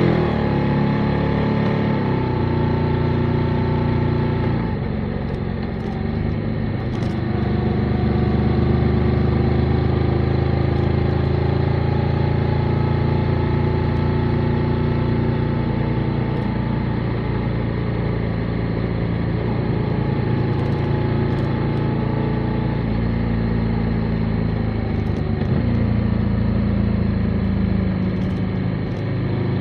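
Motorcycle engine running while riding, its pitch stepping and drifting up and down with throttle and gear changes, with a short easing-off about five seconds in.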